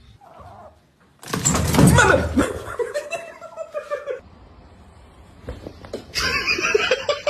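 A person laughing: a loud outburst about a second in, then a rapid run of rhythmic laughs near the end.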